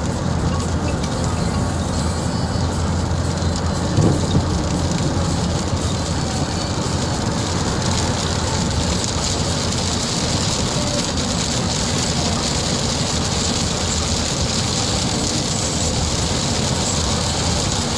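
Heavy rain falling in a steady rush, growing a little hissier after about eight seconds, with a brief low thump about four seconds in.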